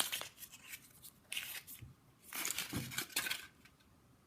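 Foil wrapper of a Kinder Surprise egg rustling and tearing as it is unwrapped by hand, in three bursts of crinkling, the last and longest about two seconds in.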